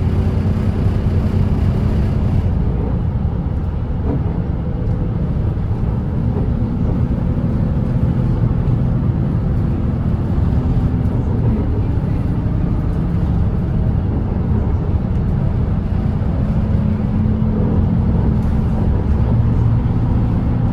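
Volvo B8RLE double-decker bus's diesel engine running steadily at cruising speed, with a low, even drone and tyre and road noise. The higher hiss falls away about two and a half seconds in.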